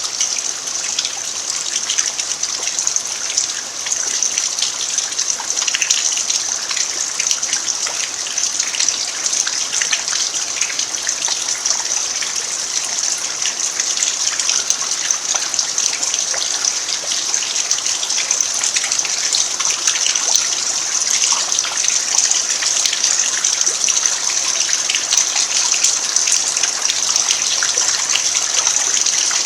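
Steady rain falling on a dirt yard: a dense, even patter of drops with a constant hiss.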